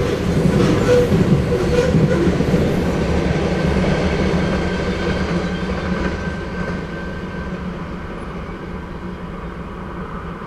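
Freight train rolling away past the crossing, the rumble of its wheels on the rails fading steadily.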